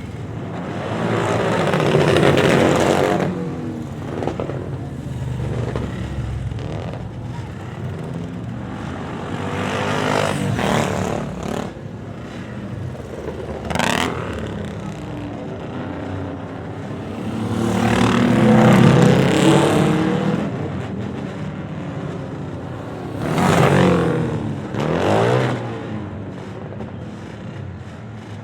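Vintage motorcycles riding past one after another, about six passes, each engine note swelling and then dropping in pitch as the bike goes by; the loudest passes come about two seconds in and past the middle.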